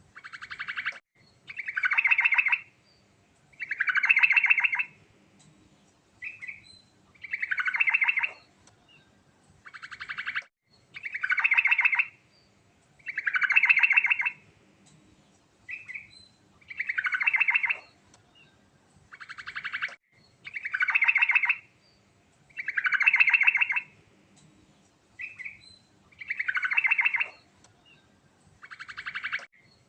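Yellow-vented bulbul (trucukan) singing: a rapid trilled phrase repeated about every two seconds, with short single chirps between the phrases.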